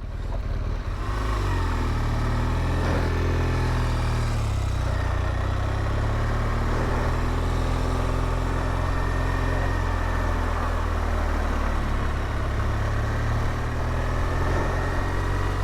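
BMW R1200GSA's flat-twin boxer engine running as the motorcycle rides, its note shifting over the first few seconds and then holding steady, with road and wind noise.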